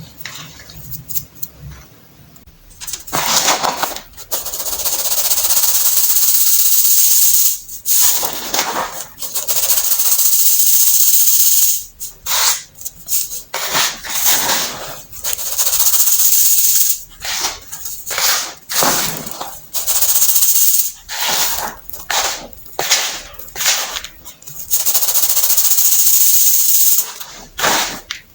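Crunchy crumbling of a compressed baking soda block being crushed by hand. It comes in a series of grainy, crackling bursts, some short and some held for two or three seconds, with brief pauses between them.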